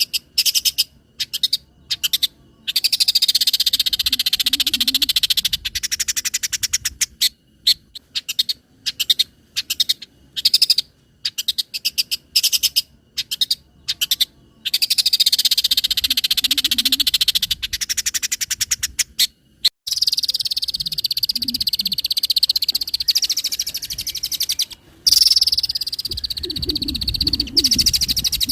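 Long-tailed shrike (cendet) singing a loud, rapid, rattling chatter of harsh notes. It comes in short bursts broken by gaps, and in longer runs lasting several seconds.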